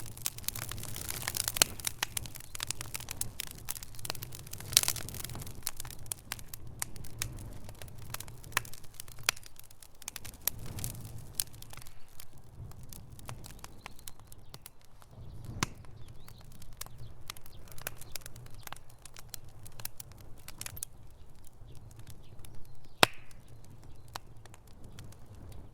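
Wood fire crackling in a fireplace: many sharp pops and snaps over a low rumble. The pops are busier in the first half and sparser later, with a few louder pops standing out.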